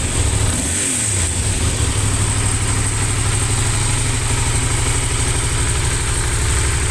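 Yamaha TDM900's parallel-twin engine blipped briefly in the first second or so, then idling steadily with an even, low pulse.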